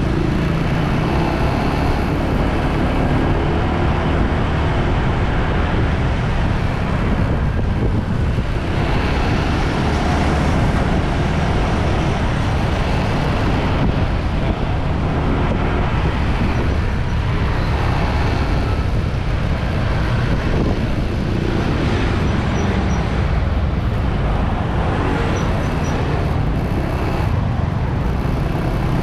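Steady rush of wind and road noise from riding a motorbike, with the engine running underneath and a few swells as traffic passes.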